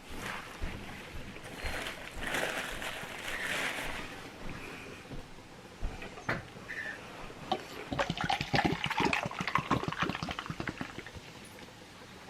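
Eating at the table: chewing and crunching a bite of food, with quick clicks and crackles about halfway through.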